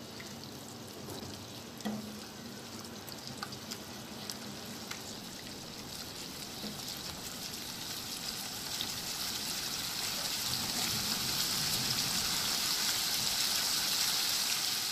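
Onion paste sizzling in hot oil in a non-stick wok as it is sautéed and stirred with a spatula, with a few light clicks. The sizzle grows steadily louder through the second half.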